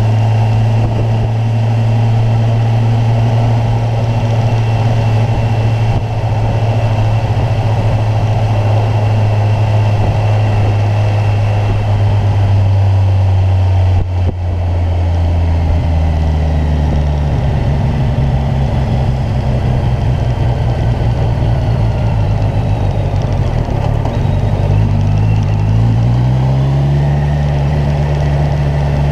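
Kawasaki Ninja 1000's inline-four engine running steadily under way. About halfway through it dips briefly and the engine note changes, then it climbs in pitch near the end as the bike accelerates.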